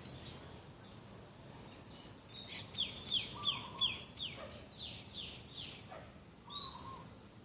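Birds calling: one bird gives a quick run of about eight high, falling notes, a little under three a second, in the middle. Short, lower calls come twice over a faint outdoor background.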